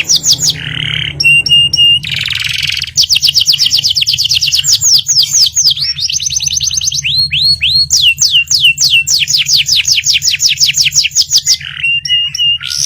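Domestic canary singing loudly in fast rolling trills: quick downward-sweeping notes repeated about ten times a second in long runs. The runs are broken now and then by a few short, steady whistled notes.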